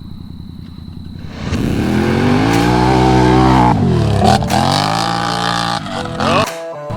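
Off-road kart or side-by-side engine running low, then revving hard as the vehicle accelerates away. The pitch climbs, drops sharply about four seconds in, then climbs again before cutting off near the end.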